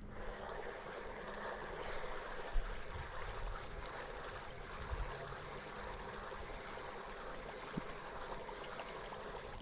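Steady running water, trickling and gurgling.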